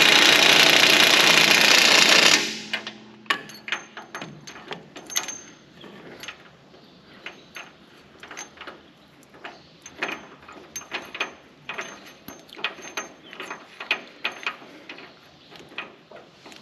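A loud, steady running machine stops abruptly about two seconds in. It is followed by irregular metallic clicks and clanks of hand tools and parts being handled, typical of ratchet and wrench work on bolts.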